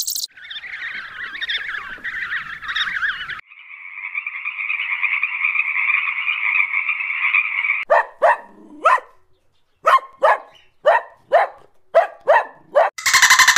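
Flying foxes chattering and squabbling, then a frog's steady trilling croak for about four seconds, then a puppy yapping in about a dozen short, high barks. Near the end, a fast buzzing rattle begins.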